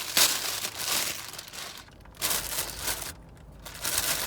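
Crinkling and rustling of takeout food packaging being handled, in a few bursts with short pauses.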